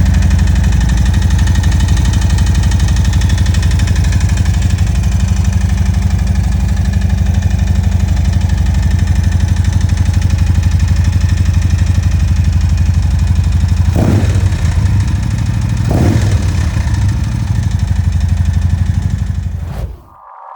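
2023 Harley-Davidson Road Glide's Milwaukee-Eight V-twin running steadily with a fast even pulse, with two short throttle blips about 14 and 16 seconds in. The engine carries a tapping, like a lifter tick, that turned out to be piston slap.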